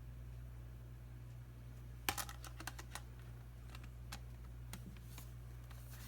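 Light taps and clicks of a tablet being handled and tapped on, about a dozen scattered irregularly from about two seconds in, the first the sharpest, over a low steady hum.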